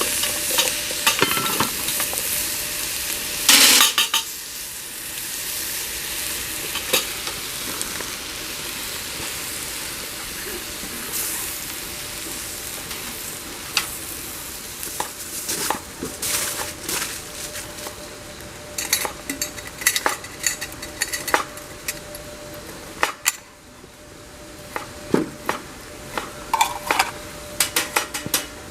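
Food sizzling and frying in a pan over a campfire, a steady hiss dotted with many sharp pops and crackles, with a few clinks of utensils against the pan.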